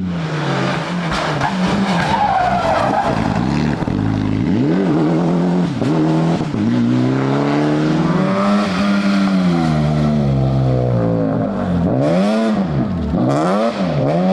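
Rally car engine revving hard, its pitch climbing and dropping again and again as it shifts gear, with quicker rev-and-shift swings near the end, over a steady hiss of tyres sliding.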